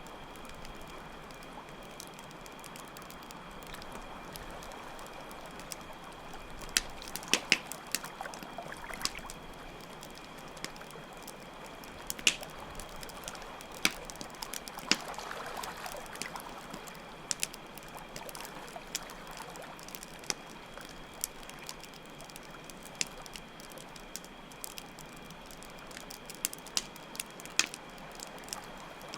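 Campfire crackling, with sharp irregular pops scattered throughout, over a steady stream of flowing water and a continuous chirring of crickets.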